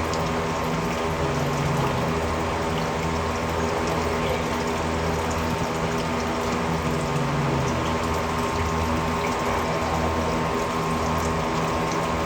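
Steady running water with a constant mechanical hum under it.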